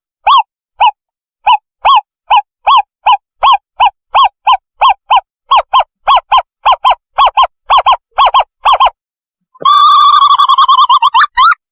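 Recorded owlet call played as a lure for catching birds: a long run of short hoots, two to three a second and speeding up. About nine and a half seconds in, it breaks into a longer, wavering, trilling call.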